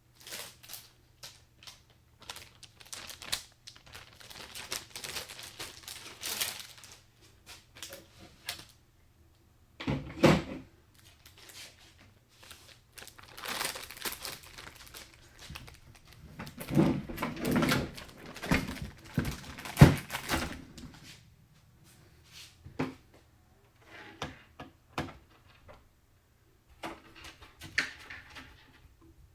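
Computer parts being handled during a desktop PC build: irregular small clicks, taps, scrapes and rustling, with a heavier knock about ten seconds in and a louder run of clattering knocks a little past halfway. A faint steady low hum sits underneath.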